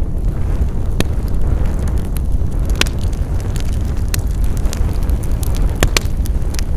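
Wood fire crackling: sharp pops and snaps, a handful of them every second or so, over a steady low rumble.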